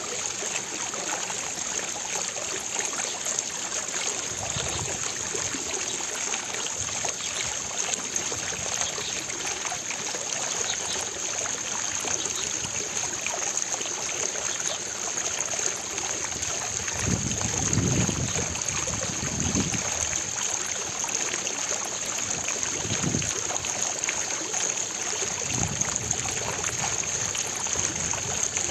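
Fountain water splashing and falling in a steady, even rush. A few low rumbles swell up in the second half, the biggest about two-thirds of the way through, like wind on the microphone.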